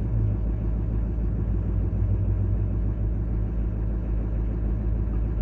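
2023 Chevy dump truck's 6.6L Duramax turbo diesel idling steadily just after a cold start, having sat unstarted for about four months.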